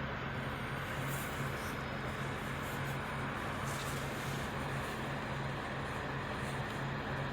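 Truck engine running steadily at idle, a continuous low drone with an even hiss above it.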